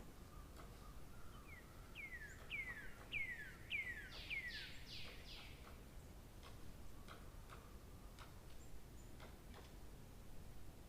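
A bird singing a phrase of about six quick down-slurred whistled notes, followed by a few fuller, buzzier notes, against faint outdoor background with scattered short ticks.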